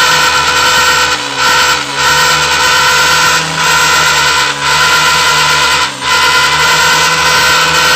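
Motorcycle engine running through two silencers joined together, giving a loud, steady exhaust drone with a horn-like tone, broken by short dips about five times.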